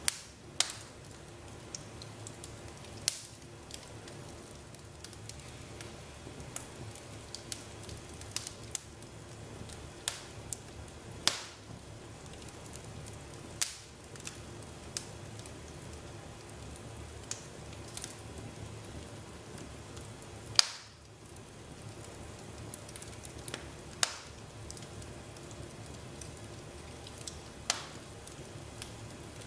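Fire crackling in a fireplace: a steady low hiss with irregular sharp pops, a few of them louder, the loudest about two-thirds of the way through.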